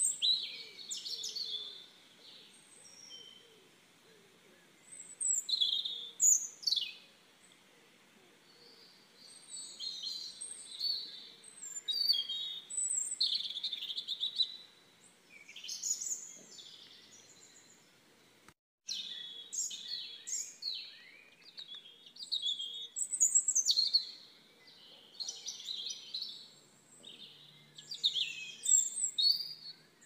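Songbirds chirping and singing in bursts: many short, high-pitched calls and trills, several birds overlapping. The sound cuts out completely for a split second about two-thirds of the way through.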